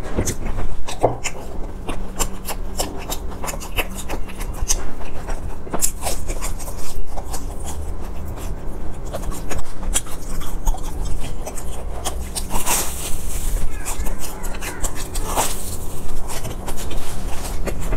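Close-miked chewing of crispy fried sesame balls: a dense run of small crunches and crackles, with a few louder crunches near the end.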